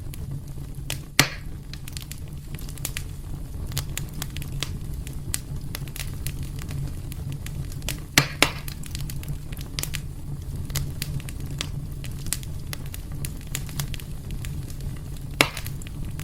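Wood fire crackling in a fireplace: a steady low rumble of burning with constant small snaps, and a few louder pops about a second in, twice in quick succession midway, and near the end.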